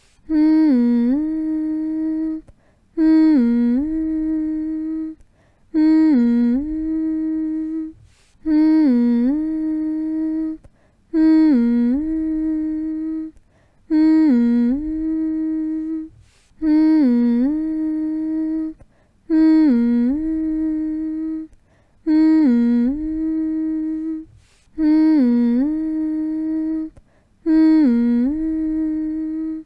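A voice humming the same short phrase over and over, about once every three seconds. Each phrase is a quick dip in pitch followed by a held note, with a brief pause between phrases: a soothing loop meant to lull a baby to sleep.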